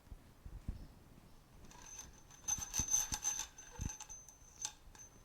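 Metal parts of a motorcycle front fork, the Suzuki TS250's spring and internals, clinking and rattling as they are handled and slid out of the tube, with a few soft knocks. A thin metallic ring hangs over the clinks in the middle of the stretch.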